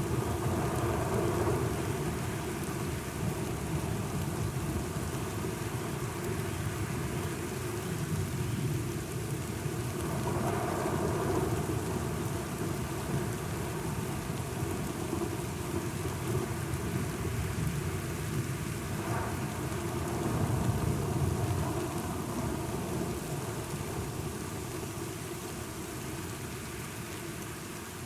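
Steady rain with low rolling thunder that swells twice, about a third and two thirds of the way through, then the storm slowly grows quieter toward the end.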